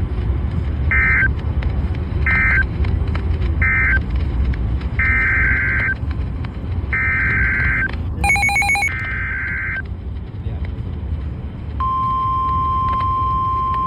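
NOAA Weather Radio alert signalling: three short bursts of warbling data tones (the end-of-message code), then three longer bursts (the header of the next warning) and a brief buzzy electronic blip, followed near the end by the steady 1050 Hz warning alarm tone starting. A low rumbling hiss lies underneath.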